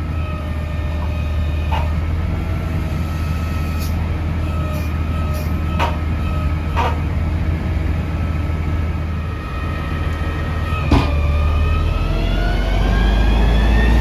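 Peterbilt 320 front-loader garbage truck running with a deep engine rumble and a steady whine that climbs in pitch over the last few seconds as the truck speeds up. A few sharp metallic knocks come through along the way.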